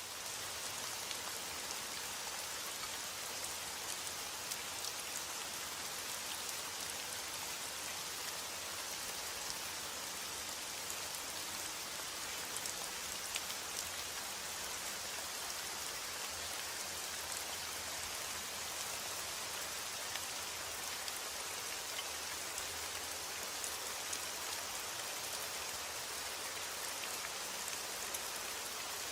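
Steady rain falling, a dense even hiss with many small drop ticks on a surface, unchanging throughout.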